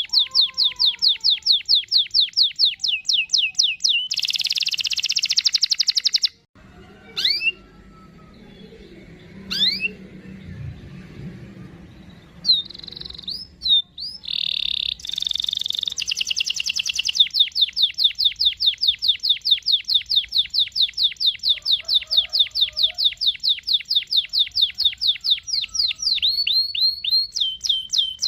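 Domestic canary singing long rolling trills of rapidly repeated high notes. The song breaks off suddenly about six seconds in, gives a few scattered chirps, and then returns to another long trill.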